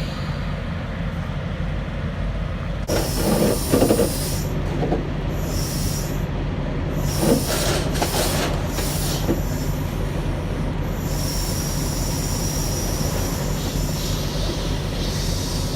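Semi truck's diesel engine running steadily while the trailer's sliding tandem axles are moved along the slider rails with the trailer brakes set. Metal scraping and squealing, with noisy bursts about three to four seconds in and again around seven to nine seconds.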